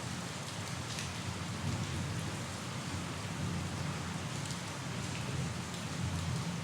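Steady rain falling and pattering on a surface, with a continuous low rumble under the hiss and a few sharper drop ticks.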